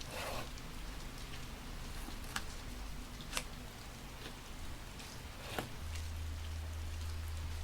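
Steady rain falling, with a brief rustle of paper at the start and three sharp ticks from paper and stickers being handled.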